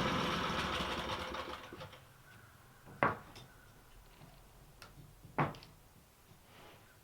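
An engine running dies away over the first two seconds, leaving quiet. Two sharp knocks follow, about two and a half seconds apart.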